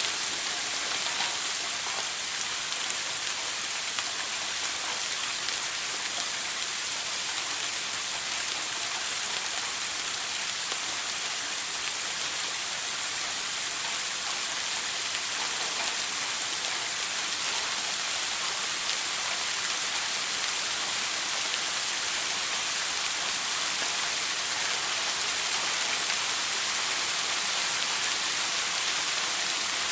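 A shower running steadily, its spray of water making an even, unbroken hiss with faint droplet patter.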